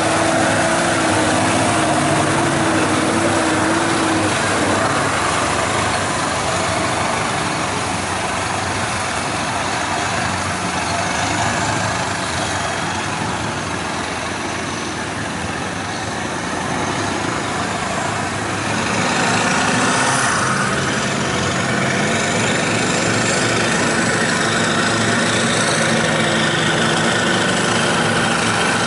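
Large mud truck engines running, with a rev that rises and falls about two-thirds of the way through.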